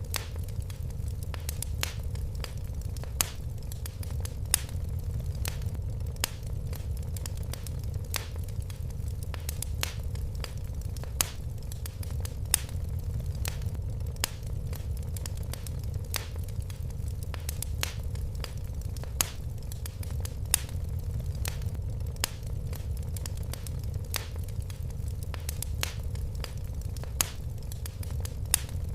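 Wood fire crackling in a fireplace: sharp, irregular pops and snaps several times a second over a steady low rumble of the flames.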